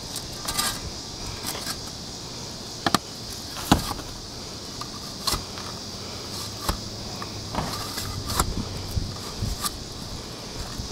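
Scattered sharp knocks and clicks, about seven over ten seconds, over a steady high-pitched hiss.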